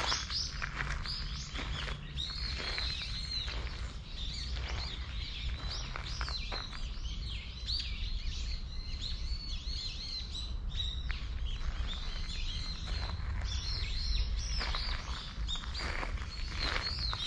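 Small birds chirping and twittering in quick short calls throughout. Footsteps crunch on gravel near the start and again near the end.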